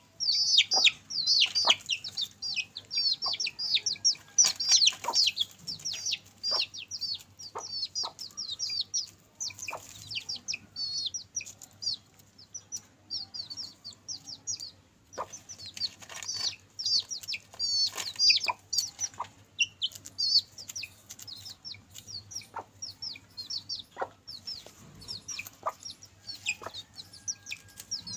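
Chicks peeping rapidly and continuously in many short, high notes, with scattered sharp clicks and a few clucks among them.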